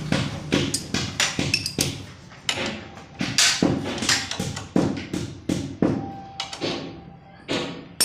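Irregular knocks and taps, about two or three a second, of tools and metal parts being handled and fitted while a motorcycle disc brake caliper and wheel are reassembled.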